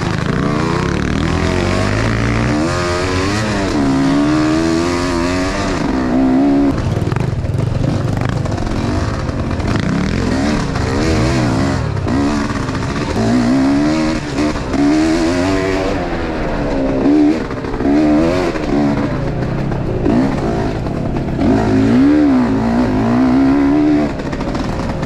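Enduro motorcycle engine being ridden, its revs rising and falling over and over.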